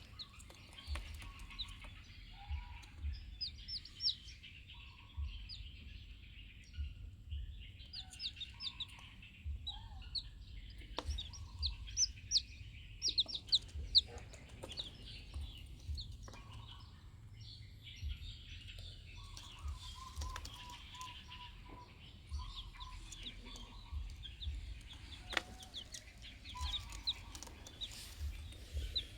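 Chickens clucking, with many short high-pitched chirps throughout and a quick run of clucks about twenty seconds in.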